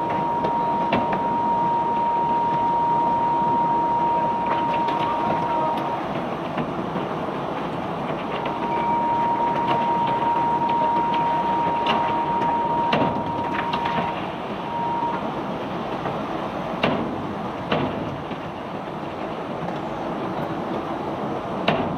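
White limestone rock pouring and rattling as it is unloaded from a barge, over a steady machinery noise, with scattered sharp knocks of rock striking. A steady high whine sounds for about six seconds at the start and again from about eight seconds in.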